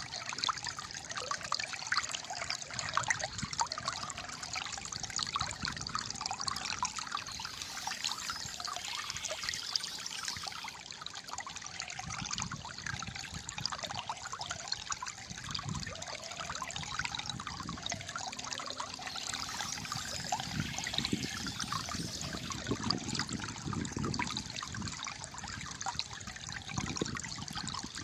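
Shallow stream trickling and gurgling steadily, with low burbling pulses here and there.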